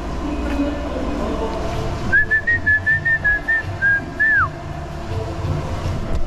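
A whistled tune of short held notes, starting about two seconds in and ending in a falling slide, over background music.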